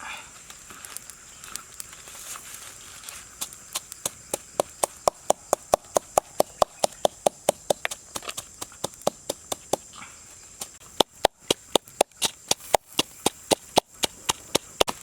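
Rapid, evenly spaced chopping knocks on wood, about three or four a second, pausing briefly about ten seconds in and then starting again.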